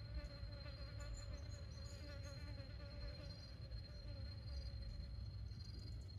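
A flying insect, fly-like, buzzing with a wavering hum that fades out about five seconds in, over a steady high-pitched tone and a low rumble.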